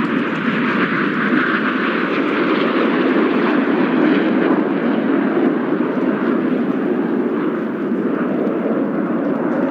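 A formation of BAE Hawk T1 jets flies low past the crowd, their Rolls-Royce Adour turbofans making a loud, steady rush as they pull into the Vixen break.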